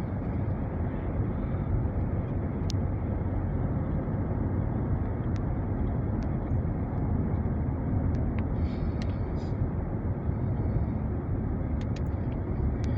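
Steady road and engine noise inside the cabin of a moving car, with a few faint ticks.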